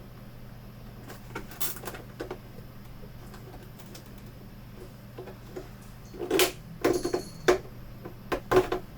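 Plastic prying tool working into the seam of an LCD monitor's plastic case: scattered clicks, then a cluster of louder clicks, creaks and scrapes of plastic about six to seven and a half seconds in, and another near the end.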